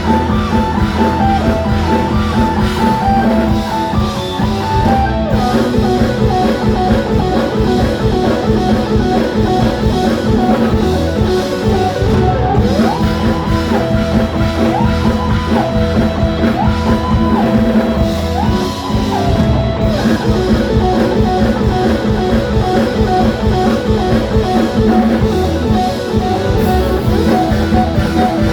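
Live band playing an instrumental passage with guitar and drum kit over a steady beat. About halfway through, a lead line slides up to a high held note four times.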